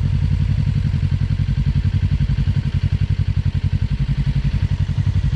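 Suzuki Inazuma 250 motorcycle engine running steadily, a low throb with a rapid even pulse.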